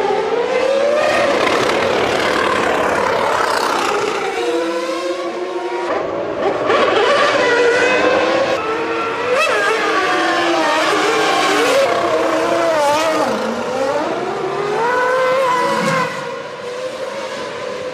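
Formula One cars' V10 engines at racing speed, several at once, their pitch climbing and dropping through gear changes and passes, with abrupt jumps where the shots change.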